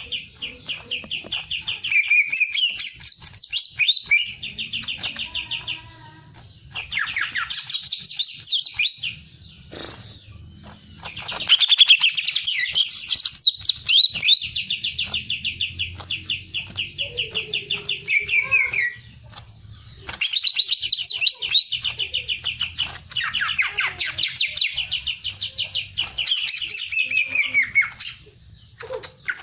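A songbird singing long runs of fast, repeated chirps mixed with rising and falling whistled phrases, pausing briefly a few times.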